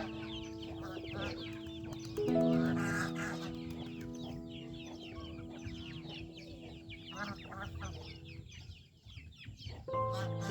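Chickens clucking and calling over soft background music with long held notes, which fade out near the end.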